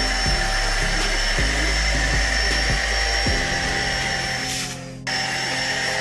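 Deerma DX700 600-watt handheld vacuum cleaner running with a steady high-pitched whine over a rushing of air. It briefly cuts out about five seconds in, then runs on.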